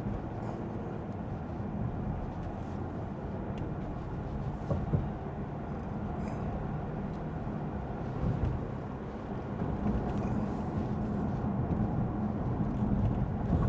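Steady tyre and road noise on a wet road, with the low hum of a Lexus ES 350's 3.5-litre V6, heard from inside the cabin while driving. It grows a little louder about ten seconds in.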